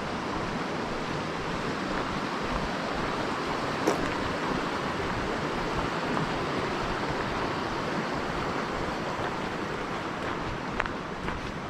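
Steady rush of flowing water, an even hiss with no change in level, broken by a single sharp click about four seconds in.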